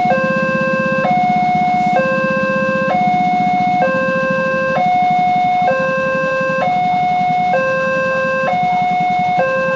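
Indonesian railway level-crossing warning alarm sounding a two-tone high-low signal, each tone held just under a second and repeating evenly, the warning that a train is approaching and the barrier is closing. A steady low hum runs underneath.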